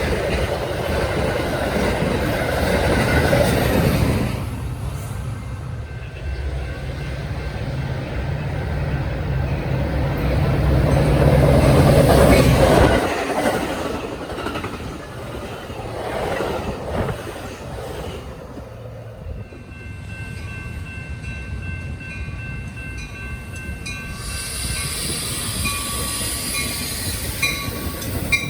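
Train passing on a mainline: steady rumble and clatter of wheels on rail, with a diesel locomotive's low engine drone through the first half. Steady high tones come in during the second half.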